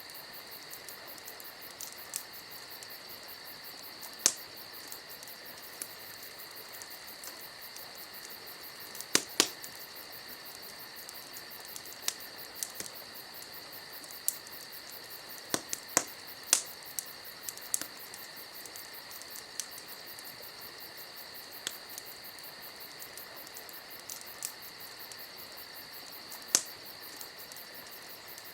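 Crickets chirring steadily, with scattered sharp pops and cracks from a wood campfire every few seconds, the loudest a quick pair about nine seconds in.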